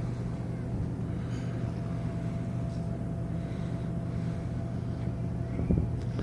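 Cruise ship's machinery giving a steady low hum, with a faint steady higher tone above it, while the ship is docking; a brief knock comes near the end.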